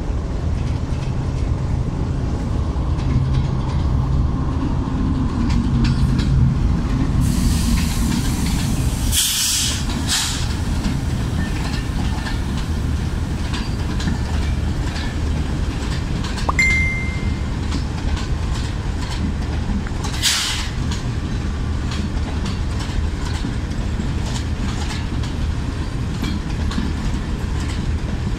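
An arriving passenger train passes close by. A GEU-40 diesel-electric locomotive's engine runs past first, then the coaches roll by with wheels clicking over the rail joints. Two bursts of air hiss come partway through, and a brief high squeal falls between them.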